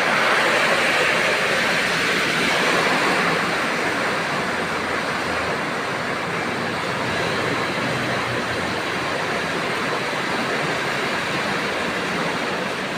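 Heavy rain falling in strong wind: a steady, dense rushing that is a little louder for the first few seconds.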